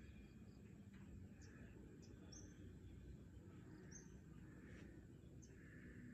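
Faint dawn ambience: several short, high bird chirps scattered over a steady low background rumble, with soft distant calls in between.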